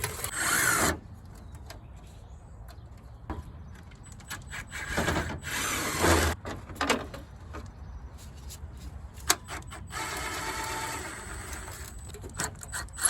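A power drill driving fasteners out of a Jeep Comanche's grille and front-end trim, run in several short bursts and one steadier run of about two seconds. There is a sharp click between the runs.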